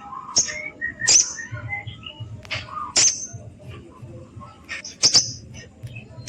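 Sogon bird calling vigorously: sharp, high, piercing chirps every second or so, with softer, lower twittering notes between them. This is a challenge call to rouse rival birds.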